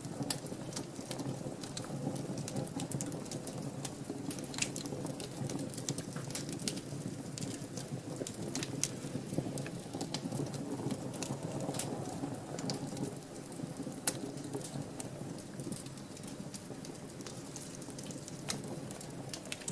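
Wood fire burning in a fireplace: a steady low rumble of flame with frequent small crackles and pops, and one louder pop about fourteen seconds in.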